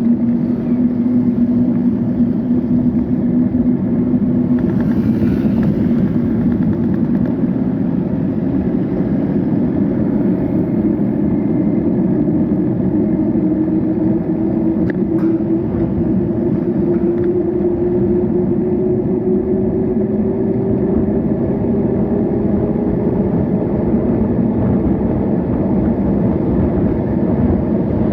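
Steady road and traffic noise heard from a moving bike, with a vehicle engine's drone that rises slowly in pitch through the second half. A single brief click comes about halfway through.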